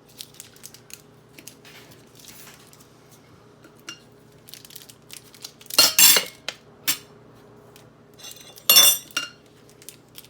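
Hard objects being handled on a table: scattered small clicks and two loud, short clattering rattles, about six and nine seconds in.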